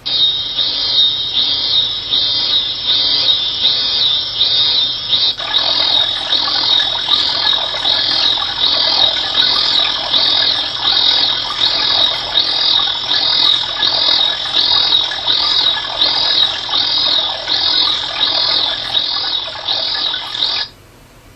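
Natural-sound auditory stimulus for an auditory steady-state response (ASSR) test: a steady sound pulsing regularly, a little under two pulses a second, with most of its energy high up near 4 kHz. It grows fuller about five seconds in and cuts off suddenly near the end.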